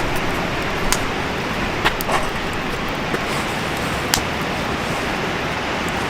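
Wood campfire burning with a steady rushing noise, broken by a few sharp crackles: one about a second in, two close together around two seconds, and one about four seconds in.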